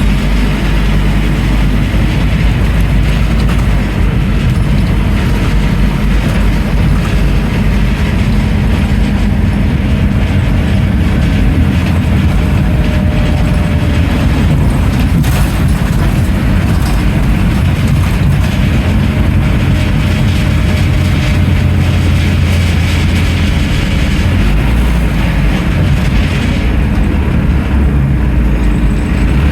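Scania N310UA articulated city bus driving, heard from inside: steady low engine and road noise with many small rattles over it. The high road noise falls away near the end.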